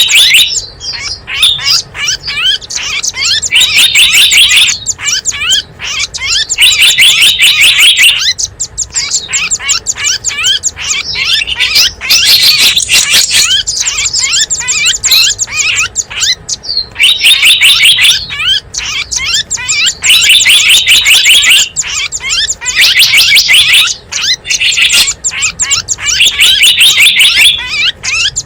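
Recorded calls of small wild birds used as a lure call: dense, fast, high chirping in bursts of one to two seconds, repeating with short gaps.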